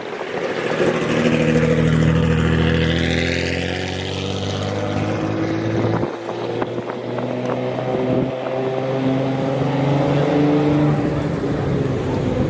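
Car engine running at low revs as the car drives slowly past. The note is steady, breaks off briefly about halfway through, then carries on.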